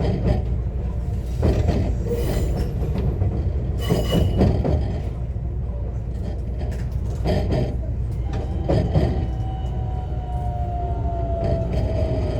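JR West 125 series railcar running, heard from inside: a steady low rumble with the wheels clattering over rail joints now and then. From about eight seconds in, the Toyo IGBT VVVF inverter and traction motor whine comes in and slowly falls in pitch as the train slows.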